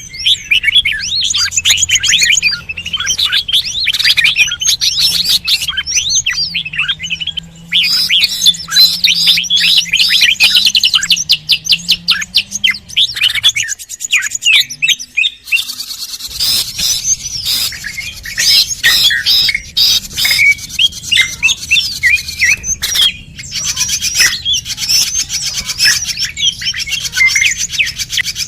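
Small birds chirping and twittering in rapid, high-pitched calls that crowd over one another, a recording used as a bird lure to draw wild birds in.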